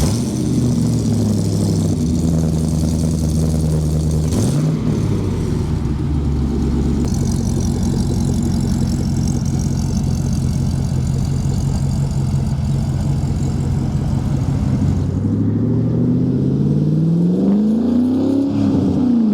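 The 1957 Chevy 3100's 6.2-litre LS3 V8 running steadily, with a short blip of revs about four seconds in. In the last few seconds it accelerates hard, the pitch rising, dropping sharply near the end, then rising again.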